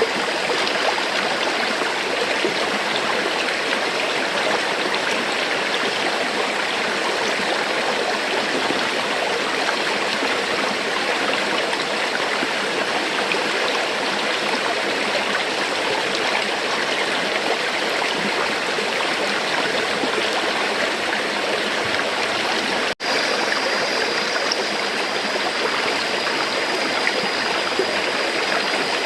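River water flowing steadily with an even rushing and gurgling sound. The sound cuts out for a split second about three-quarters of the way through, then resumes.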